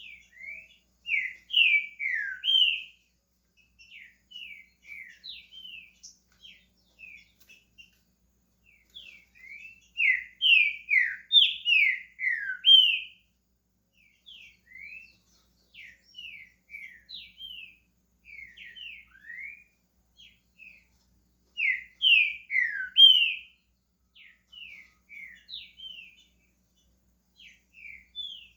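Green-winged saltator (trinca-ferro) singing: three loud bursts of quick, clear, down-slurred whistled notes, with softer scattered notes in the gaps between them.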